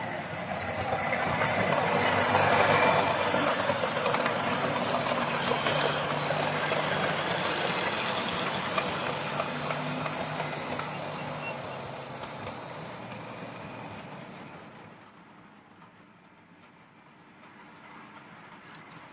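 OO gauge model train running on the layout's track: a rolling rumble with the drone of the locomotive's motor. It grows louder for the first few seconds, holds, then fades away after about eleven seconds as the train moves off.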